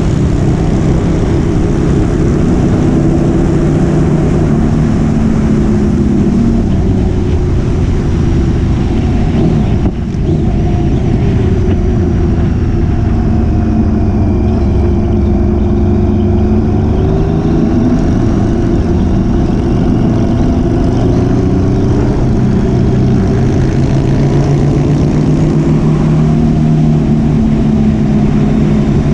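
Motorcycle engine running at a steady road speed, its pitch drifting slowly up and down, with wind rushing over the mic. There is a brief drop in loudness about ten seconds in.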